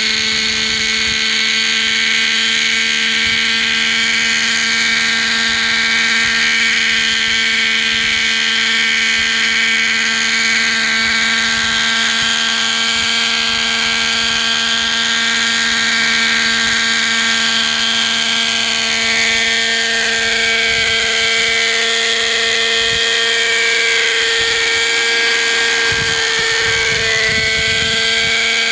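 Hirobo Sceadu model helicopter's .50-size two-stroke nitro engine and rotors running in flight, a steady high-pitched whine with a small shift in pitch near the end. The revs are lower than they should be because the fuel mixture isn't quite right.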